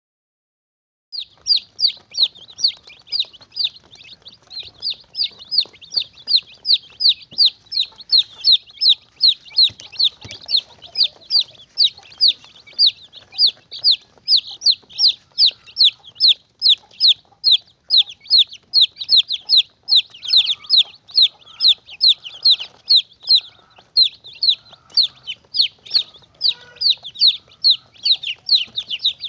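Chick peeping: a steady run of high, short calls, each sliding down in pitch, about three a second, starting about a second in.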